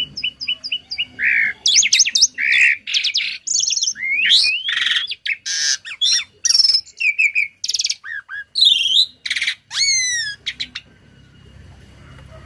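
Tame starling singing a fast, varied song of whistles, chirps, sweeping notes and buzzy phrases, full of learned fill-in phrases; the singing stops near the end.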